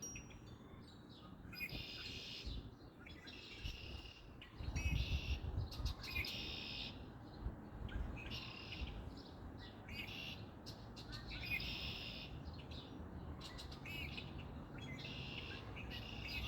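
Birds chirping in short repeated bursts every second or two, with a low rumble for about a second and a half around five seconds in.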